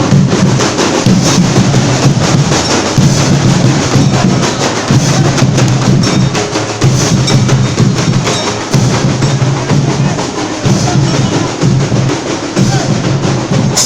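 Loud percussion drumming: rapid strokes over a deep drum that beats in repeated phrases about a second long, with brief gaps between them.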